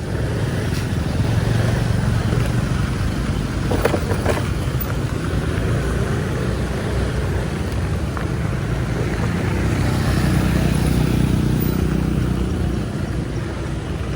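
A motor engine running steadily with a low hum, over broad road or wind noise. There are a few brief clicks about four seconds in.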